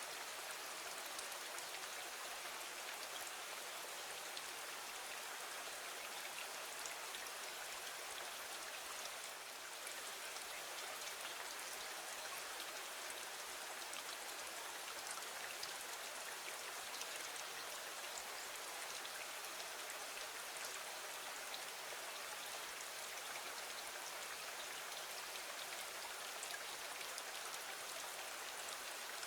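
Steady rain hiss, dotted with small scattered drop ticks, falling against a window.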